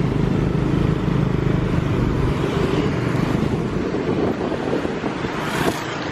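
Street traffic with a motor vehicle engine running steadily, its hum becoming rougher and noisier near the end.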